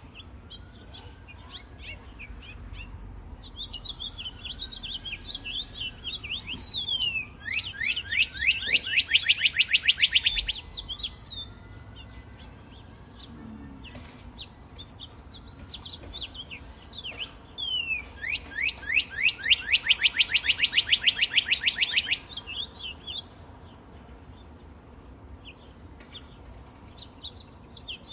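Songbirds singing: two long, fast trills of rapidly repeated notes, one about a quarter of the way in and one past the middle, with scattered short chirps between them.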